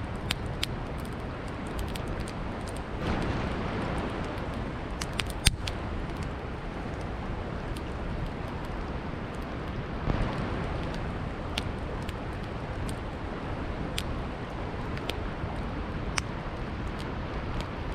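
Campfire crackling with scattered sharp pops over the steady rush of a river, the loudest pop about five and a half seconds in.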